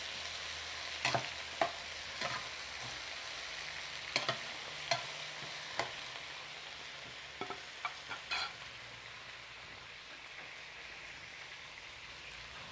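Chopped tomato, onion and chile frying in an enamel pot with a steady sizzle, while a plastic spoon stirs them, knocking and scraping against the pot at scattered moments through the first eight or so seconds. The sizzle eases off slightly toward the end.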